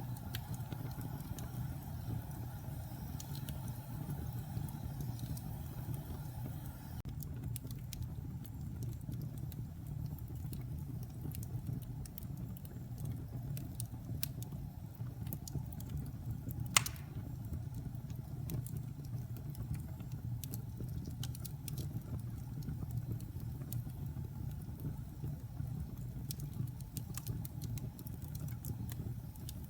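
Wood fire burning in a fireplace: a steady low rumble with scattered small crackles, and one sharp, loud pop a little past halfway.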